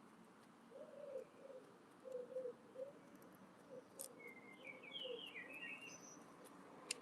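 Wood pigeon cooing: a run of low, soft coos, faint. Over the later coos a small songbird gives a short chirping phrase, and there are two sharp clicks.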